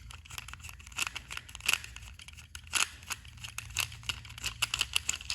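Irregular small clicks, taps and rustles of a plastic toy train engine being handled.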